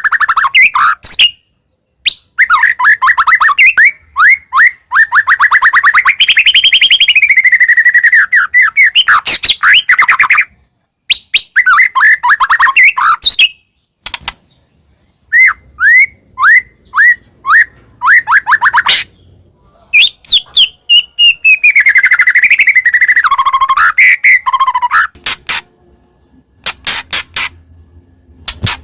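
White-rumped shama (murai batu) singing loudly: fast runs of repeated sharp chirps and long whistled phrases that rise and fall, with brief pauses of about a second between song bouts.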